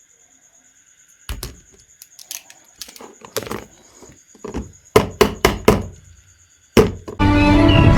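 A series of irregular knocks and thunks, with four loud ones in quick succession about five seconds in and one more shortly after. Music starts just before the end.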